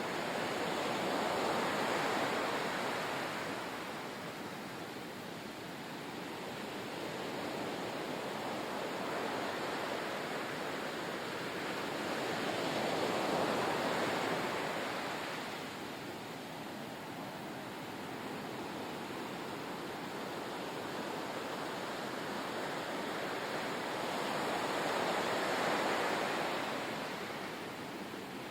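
Ocean surf: waves washing in and drawing back, the rush swelling and fading three times about twelve seconds apart.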